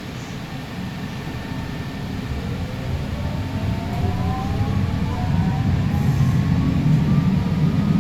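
Alstom Citadis Spirit light-rail train pulling away from a station, heard from inside the car: the electric traction motors whine, rising in pitch as it accelerates, over a rumble of wheels on rail that grows steadily louder.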